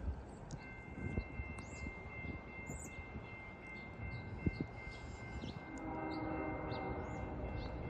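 Approaching freight train led by a GE ES44AC locomotive. A high, steady, multi-pitched ringing starts about half a second in. From about six seconds a louder, lower droning chord swells in as the lead unit nears. Small birds chirp throughout.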